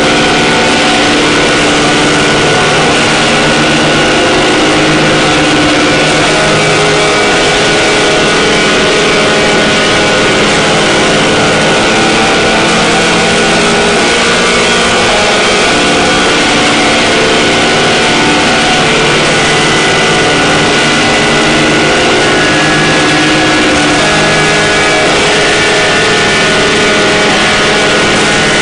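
Harsh noise drone music: a loud, unbroken wall of distorted noise with several sustained droning tones held beneath it, the low tones shifting slowly while the whole stays at one level.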